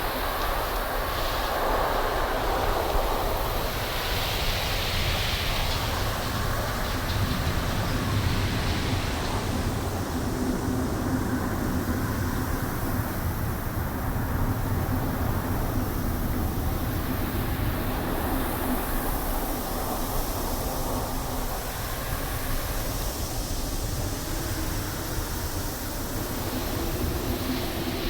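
Wind blowing through trees: a steady low rumble with gusts that swell and fade.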